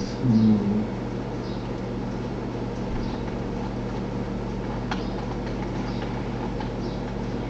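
Steady low electrical hum and hiss of background noise, with a single sharp click about five seconds in.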